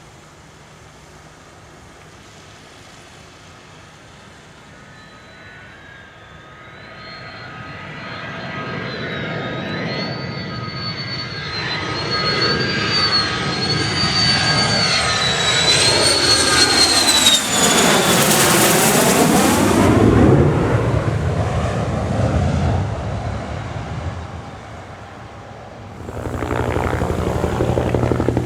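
JASDF F-2A fighter's single turbofan jet engine approaching and passing: the jet noise builds, with a high whine wavering in pitch. It is loudest about two-thirds through, with a sweeping change in tone as it goes by, then fades. Near the end it gives way abruptly to a helicopter's steady engine and rotor sound.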